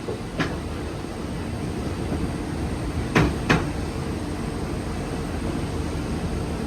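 Passenger train running with a steady low rumble. A sharp knock comes about half a second in, and two more close together a little after three seconds.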